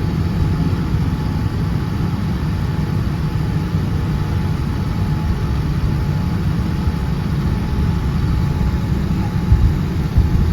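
Steady low rumble of a United Boeing 787-10's jet engines at low power during taxi, with a faint steady whine above it.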